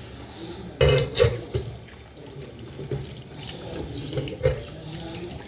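Tap water running into a sink while dishes are washed, with several sharp knocks of dishware, the loudest just before and just after a second in.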